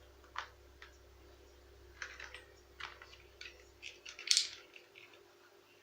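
A series of light clicks and taps from small parts being handled, with one louder, brief scraping rustle about four seconds in.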